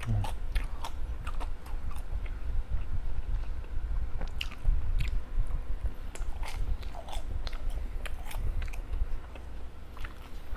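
Close-miked chewing and biting of homemade veggie balls, with many small, irregular crunches and mouth clicks.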